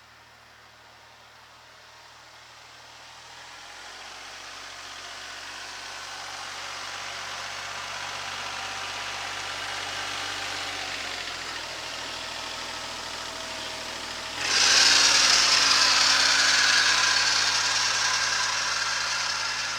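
Kubota SL28H tractor's diesel engine running and growing steadily louder. A bit past two-thirds of the way in, the engine speed steps up and a loud, high-pitched squeal suddenly sets in over it. This is the sign of a slack alternator belt slipping.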